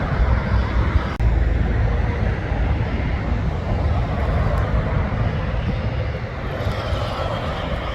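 Heavy truck traffic going by: engine rumble and road noise, with a brief break about a second in.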